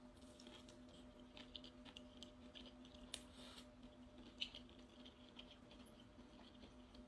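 Faint close-up eating sounds: soft chewing with scattered small clicks and crackles, two sharper clicks about three and four and a half seconds in, over a steady low hum.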